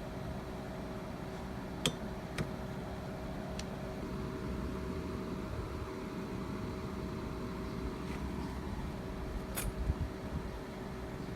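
A steady background hum with a few light clicks and clinks of small metal parts being handled, the sharpest just before the end.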